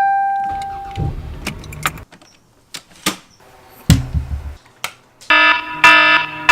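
A quick-cut sequence of short household sound effects: a ringing tone at the start, scattered clicks and knocks with a couple of low thuds, then from about five seconds in a loud buzzing tone pulsing four times.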